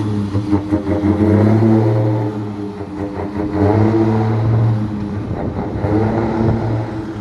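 Mercedes-Benz Axor 1840 truck's engine droning through a button-operated exhaust, a deep steady note that is held for a second or two at a time, dips, and comes back several times.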